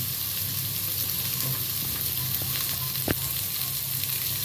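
Chopped onions, green chillies and dals frying in hot oil in a metal pan: a steady sizzling hiss, with one sharp click about three seconds in.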